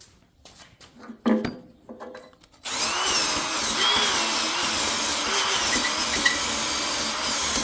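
Electric starter cranking the Allis-Chalmers B210 garden tractor's single-cylinder engine for about five seconds without it firing, for lack of spark, then stopping suddenly. A knock comes about a second in, before the cranking starts.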